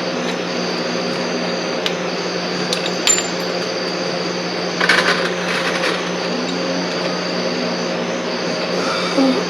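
Metal tools and car parts clinking a few times, with a short metallic rattle about five seconds in, over a steady mechanical hum.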